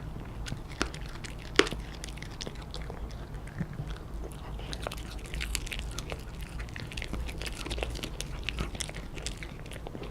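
A dog chewing and crunching a hard treat, with many crisp bites and cracks over a steady low hum. The sharpest crack comes about a second and a half in.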